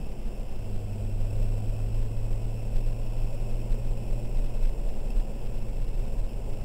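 BMW 330i ZHP's 3.0-litre straight-six running at low, steady revs, heard inside the cabin over a steady noise. The hum grows stronger about half a second in and eases a little near the end.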